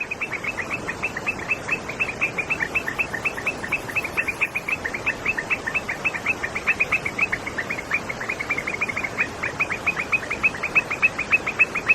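Chorus of coquí frogs calling, many short, high chirps overlapping several times a second over a steady background hiss.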